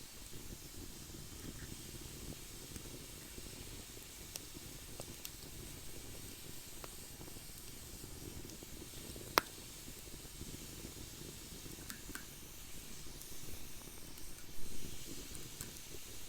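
Wood fire in a fire pit burning with a steady low rumble and scattered small crackles, and one sharp pop about nine seconds in. The rumble grows louder and more uneven near the end.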